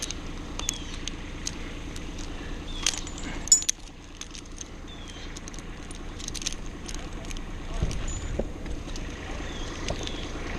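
Scattered light metallic clinks and taps of tree-climbing and rigging hardware, with one sharp knock about three and a half seconds in, over a steady low hum.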